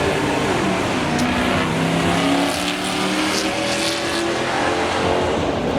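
A car engine held at high revs with tires squealing, as the car slides.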